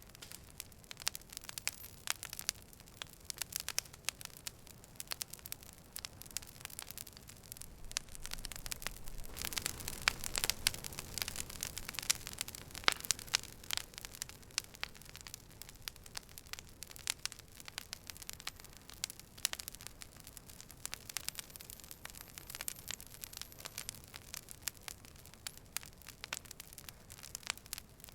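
Campfire crackling, with many sharp pops and snaps from the burning wood over a steady hiss. Around the middle the fire's low rushing sound swells for a few seconds, and the pops come louder and thicker.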